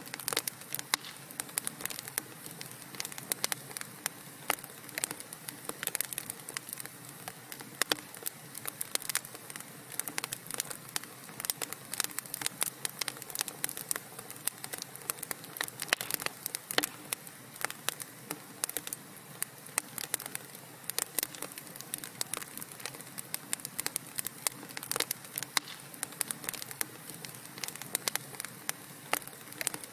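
Wood fire crackling in a fireplace: a steady hiss of burning with frequent, irregular sharp pops and snaps.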